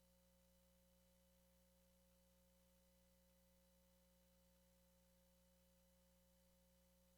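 Near silence: only a faint, steady hum of several fixed tones over low hiss, unchanging throughout.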